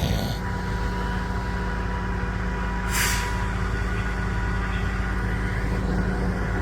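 Heavy truck engine idling steadily, with one short, sharp air hiss about three seconds in.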